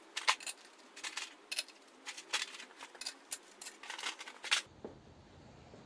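Sharp clicks and clinks of small metal parts being handled, most likely the engine's manifold bolts being picked up and knocked together, a dozen or so in irregular succession that stop a little before the end.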